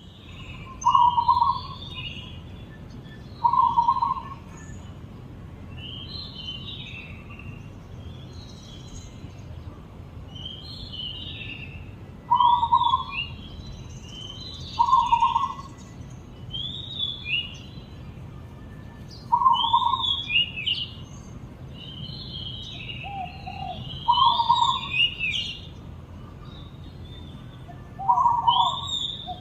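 Oriental magpie-robin singing varied, high whistled and warbled phrases, while a dove gives short low coos every few seconds, the coos the loudest sounds.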